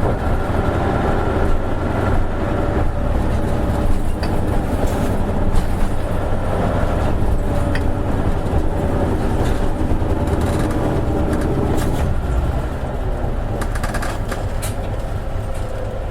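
Cabin running sound of an Isuzu Erga KL-LV280N1 diesel city bus under way: steady engine and road noise with scattered light rattles. The engine sound eases slightly about twelve seconds in.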